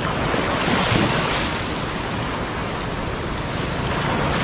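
Sea waves breaking and washing up the shore, swelling about a second in, with wind rumbling on the microphone.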